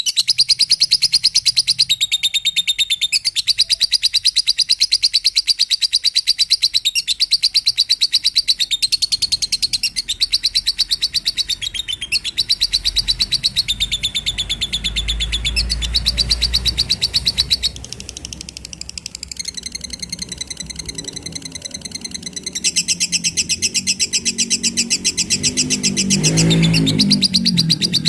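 Lovebird chattering in long, very fast, unbroken high trills, broken by short pauses every few seconds. Near the end a lower, rougher sound joins in.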